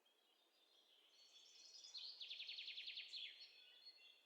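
Faint birdsong: thin high chirps, with a rapid trill of about ten quick repeated notes a second lasting just over a second, starting about two seconds in.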